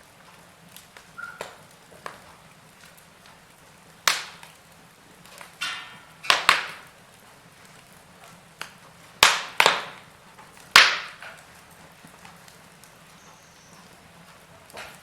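Wood fire in a fireplace crackling: about half a dozen sharp pops and snaps with a few softer ticks, over a faint steady hiss.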